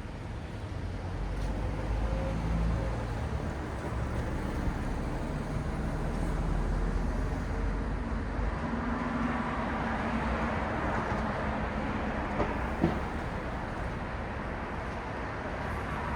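Steady city road traffic: engines rumbling and tyres hissing as vehicles pass, with one passing vehicle growing louder about nine to twelve seconds in. Two short sharp knocks sound just after it.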